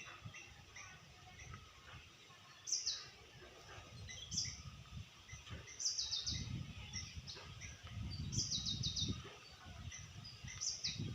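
Birds chirping: short, high calls that drop in pitch, some in quick runs of three or four notes, repeating every second or two over a low rumble that swells twice midway.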